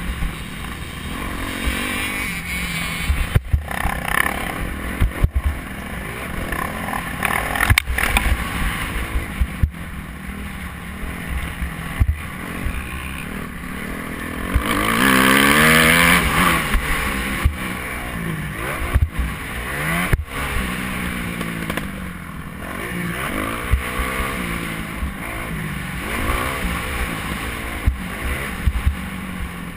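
Motocross bike engines revving up and down, with the loudest, highest revving about halfway through, over a low rumble and several sharp knocks.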